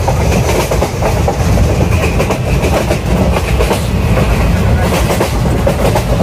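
Passenger train coach moving along the line, heard through an open barred window: a steady low rumble with the clatter of wheels on the rails.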